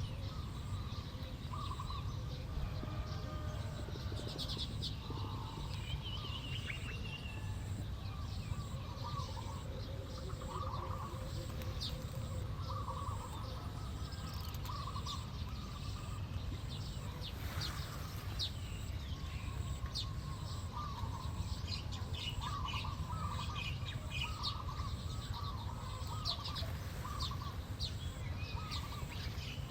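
Small songbirds chirping in many short, repeated calls throughout, over a steady low rumble.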